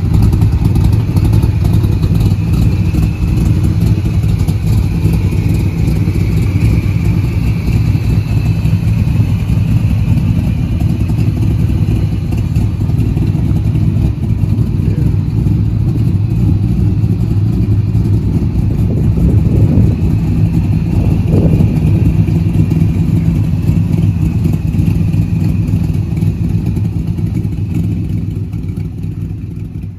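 Big-block V8 of a 1969 Corvette 427 running steadily through its side exhaust pipes, fading out near the end.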